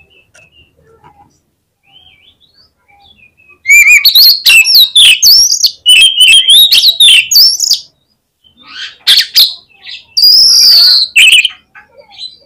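Oriental magpie-robin (kacer) in lively 'gacor' song. A few faint scattered chirps give way, nearly four seconds in, to a loud run of rapid, varied whistled notes jumping in pitch. Two shorter loud phrases follow near the end.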